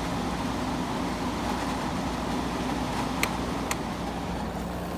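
Vintage window air conditioner running on its high fan setting with the compressor on, a steady blowing hum. Two sharp ticks come a little past three seconds in.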